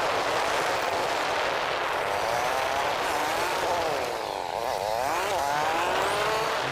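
A vehicle's engine running on the road, its pitch rising and falling again and again as it speeds up and slows down, with a steady rush of wind and road noise underneath.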